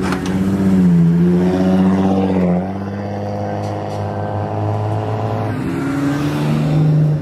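Engines of lowered custom cars idling and creeping past one after another, led by a slammed Toyota Crown sedan: a steady low engine note with a slight rise and dip in pitch early, giving way to another car's note about two and a half seconds in and to a third a few seconds later.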